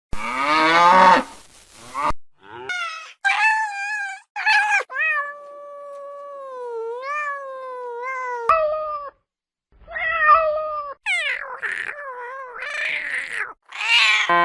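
Domestic cats meowing in a run of short clips cut together, with abrupt breaks between them. One long drawn-out meow in the middle lasts about three seconds.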